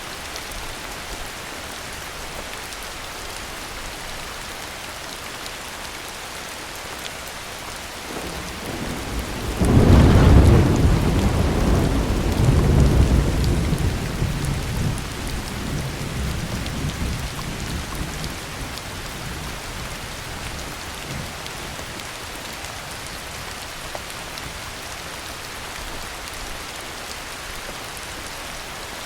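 Steady heavy rain hissing, with a thunderclap about a third of the way in: a brief build, a sharp crack, then a low rumble fading over several seconds back into the rain.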